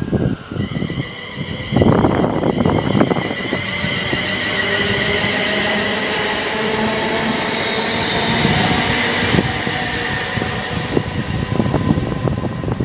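Virgin Class 390 Pendolino electric express passing through at speed: a sudden loud rush of wheel and air noise about two seconds in, with a steady high whine over it, easing near the end.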